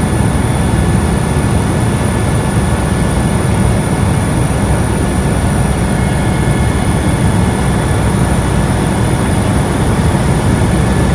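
Helicopter running: a loud, steady noise with constant high whining tones over it.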